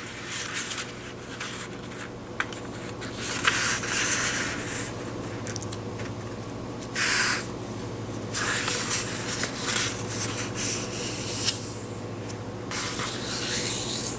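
A square of paper being folded along its diagonal: papery swishing as the sheet slides and the crease is rubbed down, in several separate strokes with a few small clicks between. A faint steady hum runs underneath.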